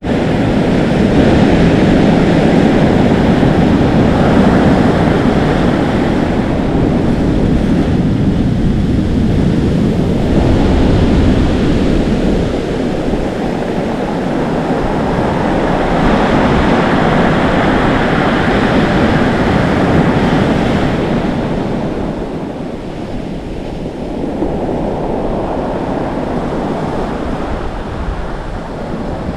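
Atlantic Ocean waves breaking and foaming on the shore, a continuous loud wash that swells and eases every few seconds as each wave crashes and sizzles back, with wind blowing on the microphone.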